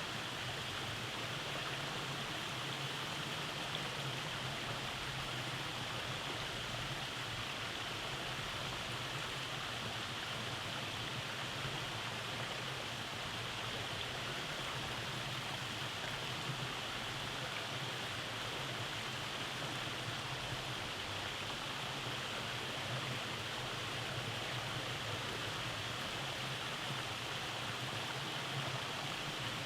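Rainforest stream running over rock cascades: a steady, even rush of flowing water.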